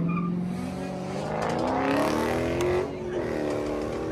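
Car engine revving hard: its pitch climbs steadily for about three seconds, drops sharply, then climbs again.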